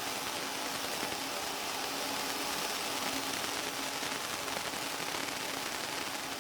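Fiber laser engraver running: a steady hiss with a faint, even hum underneath.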